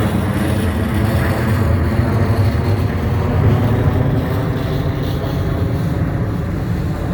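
Jet engines of a McDonnell Douglas MD-11F trijet freighter running at takeoff thrust, a steady low rumble as the aircraft climbs away, easing off slightly near the end.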